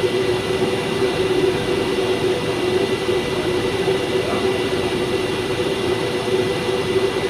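Steady droning hum of a train standing at the platform, its cooling fans and electrical equipment running, with a constant low tone and faint high whines.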